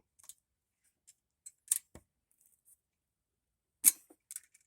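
Small engine's oil dipstick being handled during an oil-level check: a few light scrapes and clicks, with one sharp click about four seconds in.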